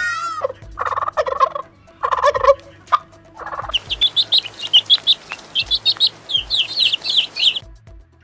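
Birds calling: a few short, harsh bursts of calls, then many small birds chirping quickly over a hiss for about four seconds, cutting off near the end.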